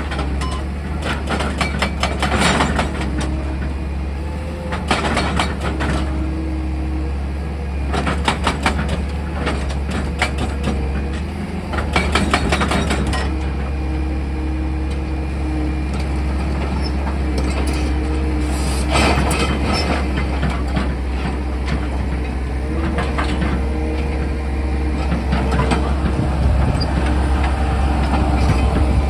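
Excavator engine running with a steady low hum, broken every few seconds by short bursts of rattling and clattering, about seven in all.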